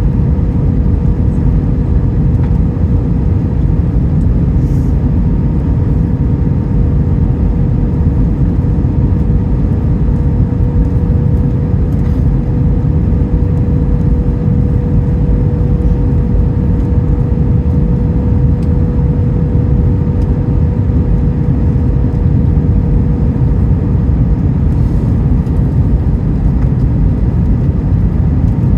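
Airbus A321 cabin noise in flight, heard from a window seat: a loud, steady rush of engine and airflow noise with a thin steady hum that fades out about 24 seconds in.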